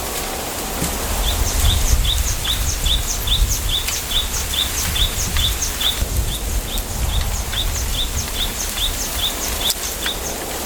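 A small bird calls in a rapid series of short, falling high chirps, about two or three a second, starting about a second in. Underneath is a gusty low rumble of wind in a bamboo grove.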